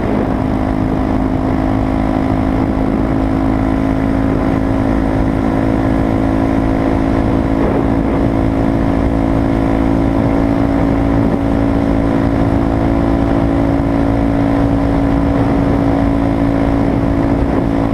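Honda Grom's 125 cc single-cylinder engine through a Zoom TDR aftermarket exhaust, held at a steady high pitch near top speed. The note stays flat and even throughout, with no rise or fall in revs.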